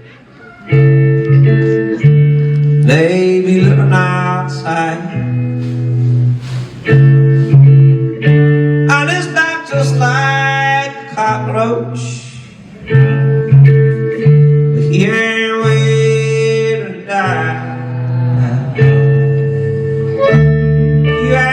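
Live band playing a blues tune: guitar leads with bending melody lines over a low bass line that changes note about once a second.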